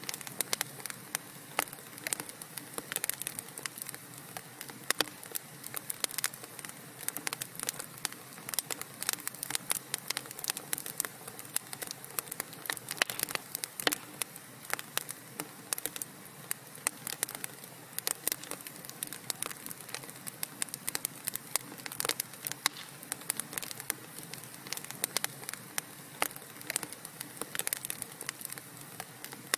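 Wood fire crackling steadily in a fireplace, with dense irregular pops and snaps over a soft hiss.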